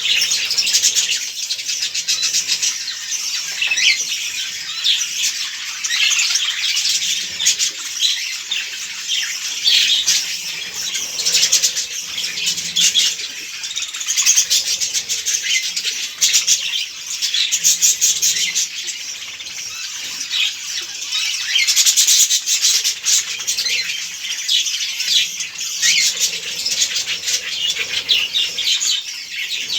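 A flock of budgerigars chattering, many overlapping chirps and warbles without a break.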